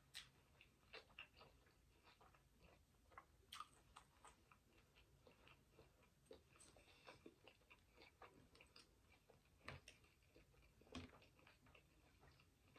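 Faint chewing of food, with scattered small clicks of a plastic fork against the plate.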